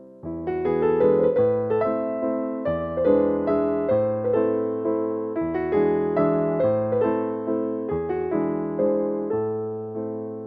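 Background music on piano: a gentle, steady run of notes over a bass line that changes every second or two, fading slightly near the end.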